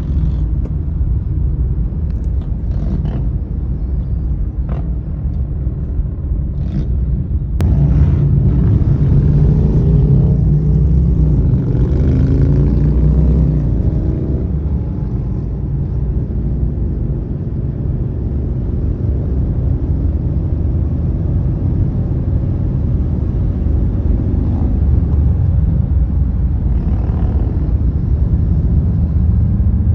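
Road traffic rumble, with a motor vehicle's engine rising in pitch as it speeds up from about eight seconds in for several seconds, and a few short clicks before it.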